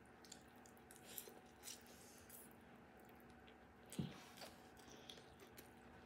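Near silence with faint chewing of noodles and a few soft clicks, one a little louder about four seconds in.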